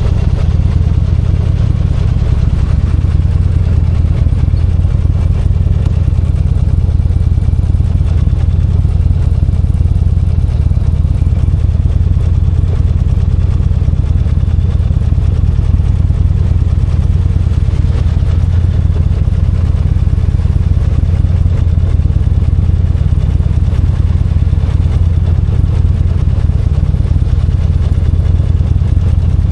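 V-twin motorcycle engine running steadily at an even pitch, heard from the rider's seat.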